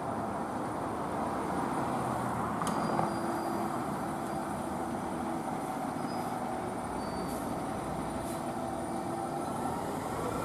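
Steady rumbling vehicle noise, a heavy vehicle running with road noise, with a couple of faint clicks.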